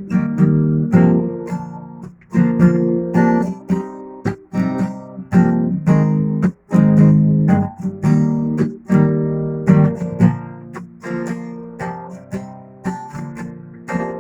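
Acoustic guitar strumming chords in a steady rhythm, each strum ringing and fading before the next.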